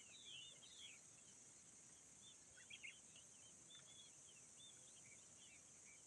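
Faint birdsong: many short chirps and whistled calls, over a steady high-pitched insect drone.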